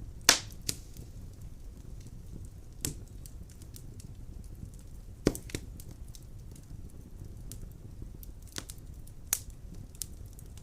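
Wood fire crackling in the firebox of a stove-fireplace: scattered sharp pops at irregular intervals over a low steady rumble, the loudest pop just after the start and another about five seconds in.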